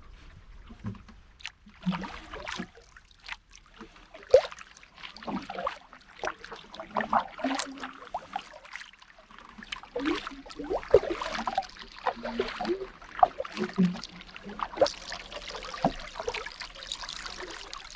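Paddle strokes in the water from a small pack canoe: irregular splashes, with water dripping and trickling off the paddle blade between strokes.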